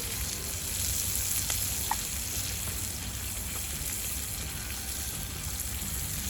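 Food sizzling steadily in a hot pan set on a trivet over a wood fire in a mesh fire pit.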